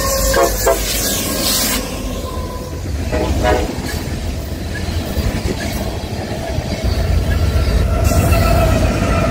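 Norfolk Southern diesel freight train passing close by: the locomotive horn sounds in short blasts at the start and again briefly about three and a half seconds in, over the steady rumble and clatter of freight cars rolling past. Near the end a steady high tone rides over the rumble.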